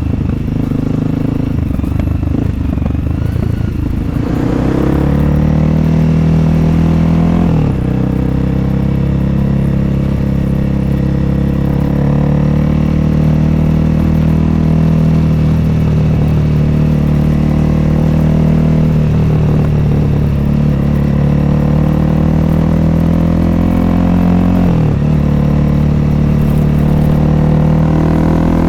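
2021 Honda CRF300L's single-cylinder four-stroke engine through an FMF Q4 exhaust, ridden on the road: uneven at low revs for the first few seconds, then pulling with the pitch climbing steadily, dropping suddenly at a gear change about a quarter of the way in and again near the end before climbing once more.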